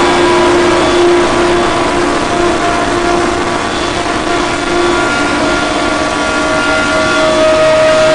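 Harsh-noise drone music: a loud, dense wash of noise with several held tones layered over it, the lowest one pulsing in and out.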